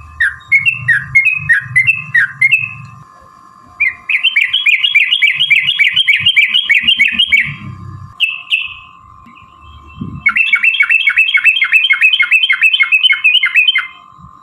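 Yellow-vented bulbul (trucukan) singing loud, bubbly chattering song: a short choppy run of notes, then two long rapid rolling series of repeated notes, several a second. A steady faint high tone and some low rumble run beneath.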